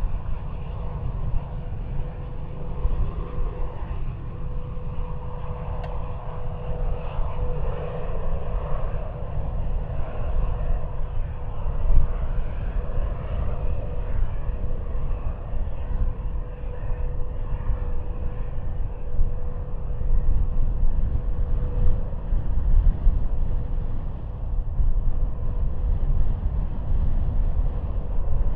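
Bombardier Global 5000 business jet's turbofan engines running, a steady whining tone over a heavy low rumble that swells for a few seconds near the start.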